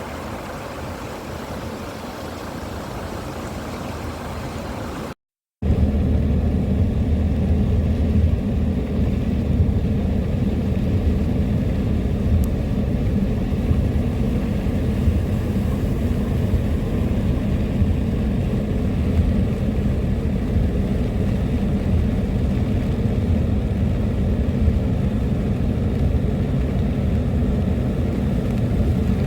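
A vehicle driving steadily: a constant low engine and road rumble with a faint hum. It follows a brief cut about five seconds in; before the cut there is a softer, steady rushing noise.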